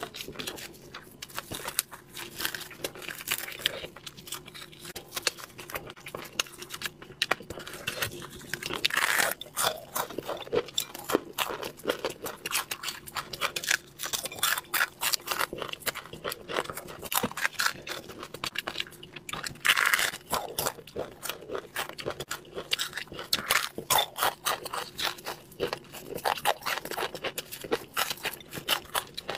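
Close-miked crunching and chewing of a whole fish coated in chili powder, with tearing of the fish by gloved hands: a dense, irregular crackle of small sharp clicks.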